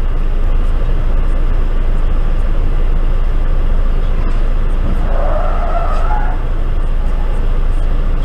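Steady road and engine noise of a moving car, with a brief wavering squeal about five seconds in.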